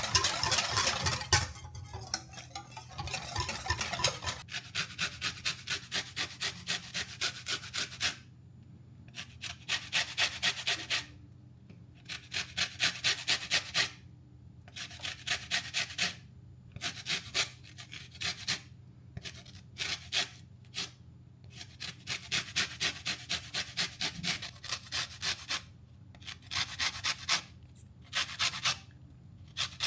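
Hand whisk beating a batter in a bowl: quick rasping strokes, about four a second, in runs of a few seconds with short pauses between.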